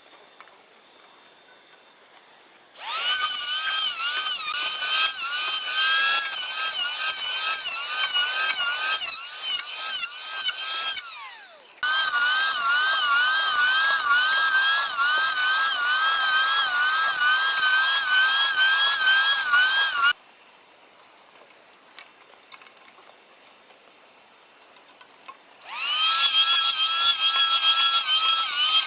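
Chainsaw cutting wood in three long runs, its high whine wavering rapidly as the chain bites. Each run spins up from quiet and stops between cuts, and the pitch falls away as the saw winds down at the end of the first run.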